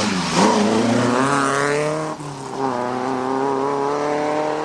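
Lancia Fulvia coupé's narrow-angle V4 engine accelerating hard away, revs rising, then a quick upshift a little after two seconds in and the revs climbing again in the next gear.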